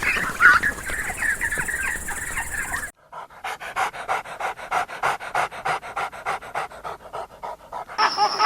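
Waterfowl calling for the first few seconds, then after a cut a dog panting rapidly, about four to five breaths a second.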